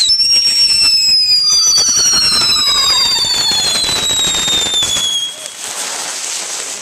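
Consumer firework going off with several shrill whistles sliding slowly down in pitch together over a dense crackling, lasting about five seconds before fading to a hiss.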